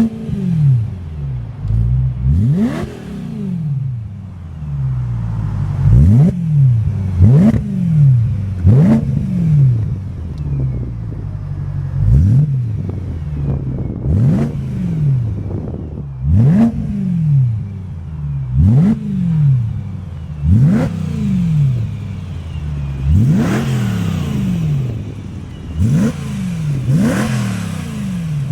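BMW M3 (E92) V8 engine through a Cobra Sport stainless-steel cat-back performance exhaust, revved over and over in quick throttle blips, over a dozen in all. Each rev rises sharply and falls back.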